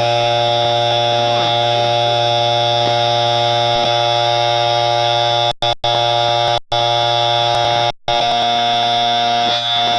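Ceiling fan running on low speed with a loud, steady electrical buzz. The sound cuts out briefly a few times near the middle.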